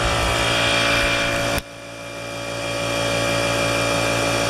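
DeWalt 4-gallon oil-lubricated air compressor running steadily with an even hum. About a second and a half in, the sound drops off sharply, then swells back to the same steady running.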